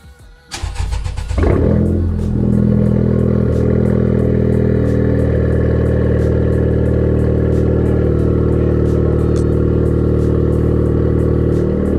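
Honda Civic Type R's turbocharged four-cylinder engine starting about half a second in, flaring up briefly, then idling steadily through a newly fitted straight-pipe exhaust.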